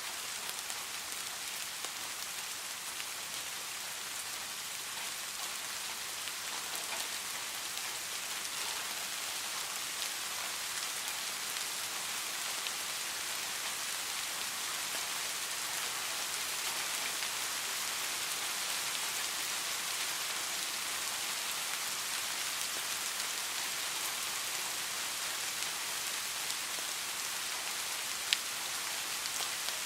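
Steady rain falling, a dense even hiss of many drops, with one sharp click near the end.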